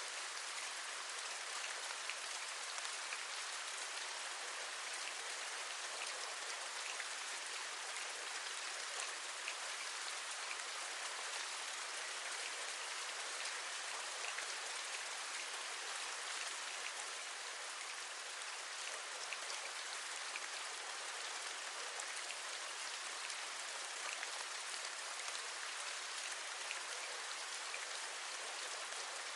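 Steady rain falling, with many small raindrops ticking on a surface.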